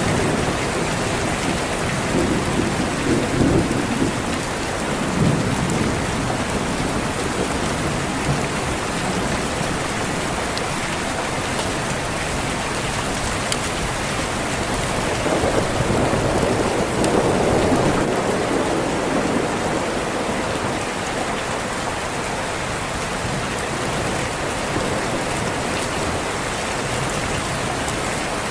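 Steady heavy rain on a window with rolling thunder. Two low rumbles swell and fade, one a couple of seconds in and a longer one about halfway through.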